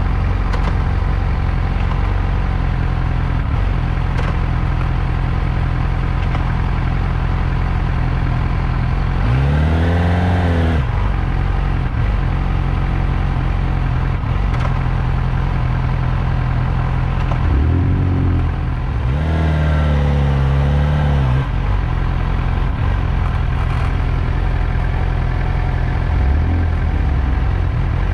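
Motorcycle engine running at low speed in traffic, with the throttle opened and closed a few times so the pitch climbs and drops: once about ten seconds in, twice more past the middle, and again near the end.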